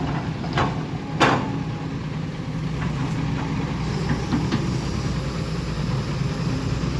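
Heavy vehicle engine running steadily at idle, with two sharp knocks about half a second and a second in.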